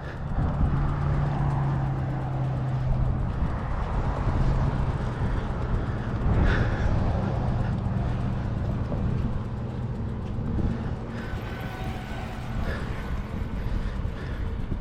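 Electric bike motor humming steadily while riding, a low even tone that fades after about ten seconds, with wind rumbling on the microphone.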